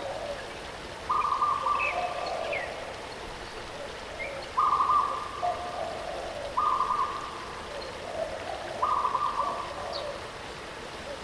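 A bird calling over and over, each call a higher note followed by a lower one, about every two seconds, over the steady rush of a waterfall.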